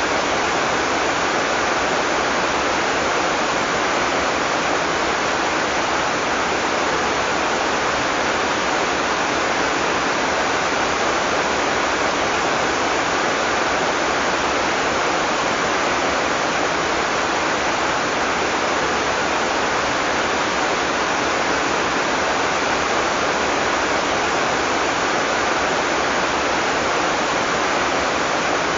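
Heavy tropical rain falling steadily, a dense even hiss without thunder or breaks.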